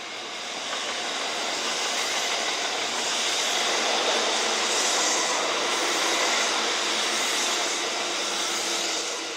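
Kintetsu electric train running through the station: a steady rush of wheels on rail that swells about a second in and eases near the end.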